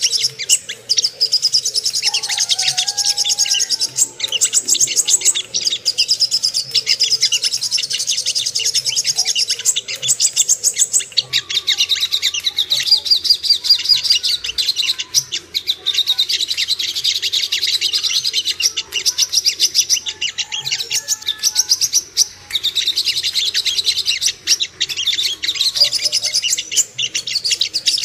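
Little spiderhunter (sogok ontong) song: long runs of rapid, high-pitched repeated chirps, broken by brief pauses.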